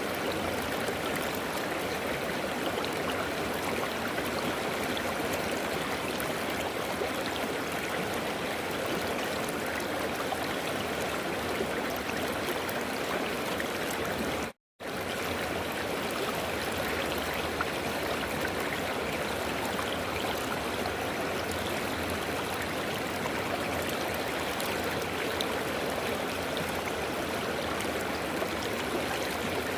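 River water flowing steadily in a continuous rushing wash. About halfway through it cuts out to silence for a split second and then resumes unchanged.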